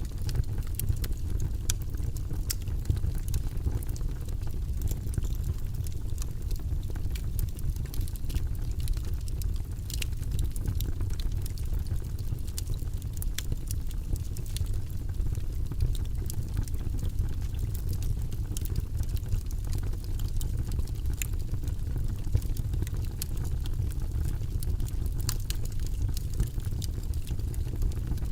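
Wood fire burning in a fireplace: a steady low rumble of the flames with irregular sharp crackles and pops from the logs throughout.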